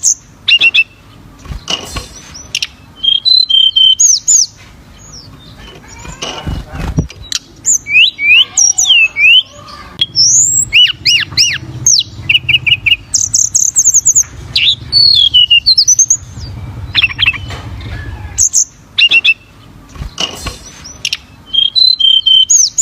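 Tledekan gunung (hill blue flycatcher) singing continuously: quick phrases of clear whistled notes that sweep up and down, with short gaps between phrases. Low rumbling noise sits under the song in places.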